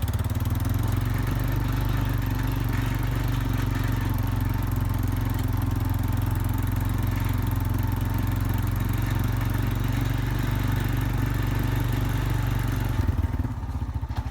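Four-wheeler (ATV) engine running steadily under way, then easing off about 13 seconds in to a slower, pulsing beat.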